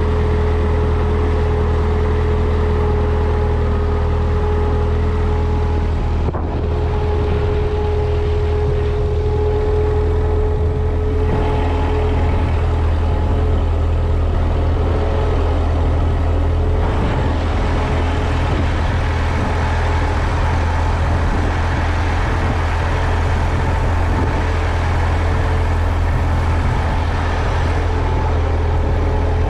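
Vintage farm tractor engine running steadily while it warms up after a cold start.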